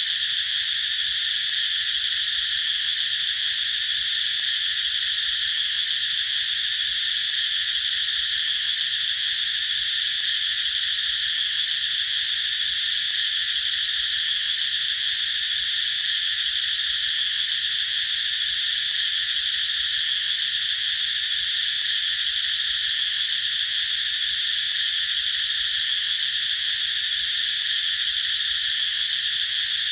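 Chorus of cicadas singing in a steady, unbroken high-pitched drone.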